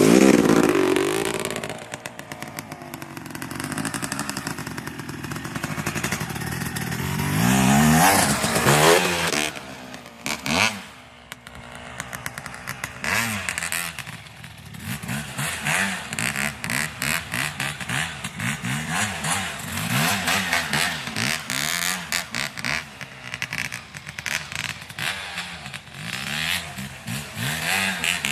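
Dirt bike engine running and revving. A long rev climbs about eight seconds in and drops off around ten seconds, followed by many short throttle blips that rise and fall in pitch through the rest.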